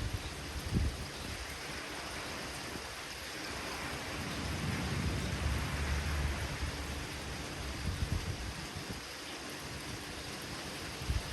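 Steady rain falling during a thunderstorm, with a low rumble of thunder swelling about four seconds in and dying away a few seconds later.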